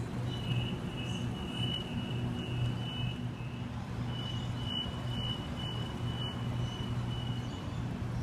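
Steady low electric hum of a Waratah electric train standing at the platform, with a thin high tone that comes and goes.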